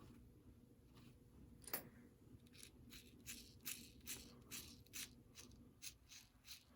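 Faint hand work on small parts: a single sharp click, then a regular series of short scratchy rubbing strokes, about two a second.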